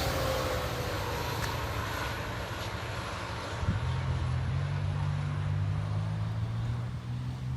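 GO Transit commuter train passing the crossing. The last of its horn trails off and falls in pitch over about the first second, leaving a steady train rumble, and a low steady drone joins about four seconds in.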